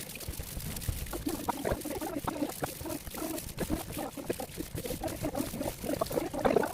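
Water splashing and trickling as plastic fan parts are washed, with many small irregular clicks and knocks of the parts being handled.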